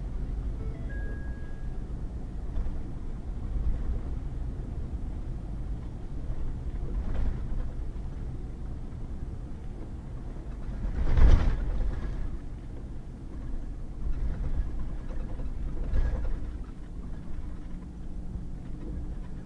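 Pickup truck driving on a muddy gravel road: a steady low rumble of engine and tyres, with a few short thumps, the loudest about halfway through.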